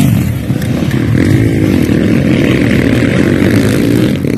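Motocross dirt bike engines running loud and revving, their pitch rising and falling repeatedly.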